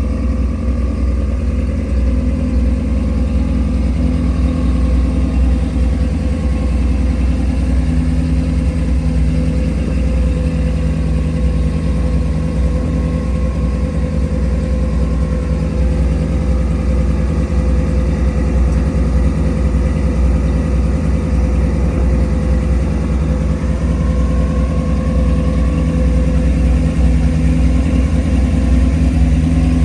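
V8 engine of a V8-swapped 1999 Chevrolet S-10 pickup idling steadily.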